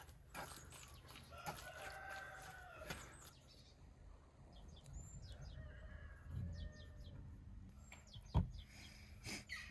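Drawn-out bird calls: a clear one about a second and a half in and a fainter one in the middle, with a few short chirps. A single sharp knock near the end is the loudest sound.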